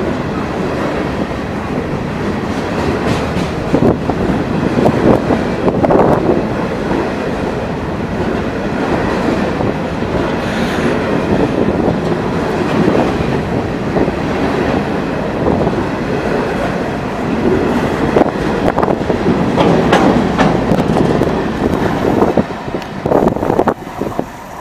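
A freight train's cars rolling past close by, steel wheels clacking over rail joints with some wheel squeal. The noise drops off near the end as the last car passes and rolls away.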